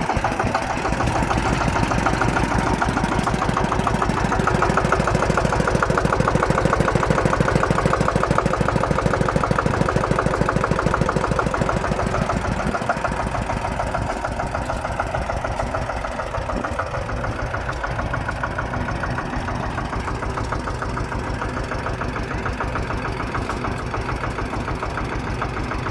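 Small German diesel tractor engine idling, with a steady, even beat of firing strokes; it gets a little quieter about halfway through.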